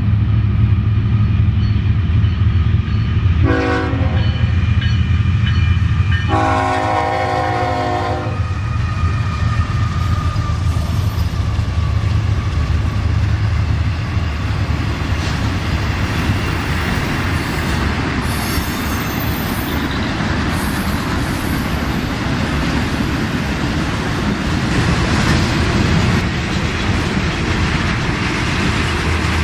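Diesel freight locomotive running with a low drone, sounding its horn twice: a short blast about three seconds in and a longer one about six seconds in. The train then rolls by with a loud, steady rumble of wheels and rail cars.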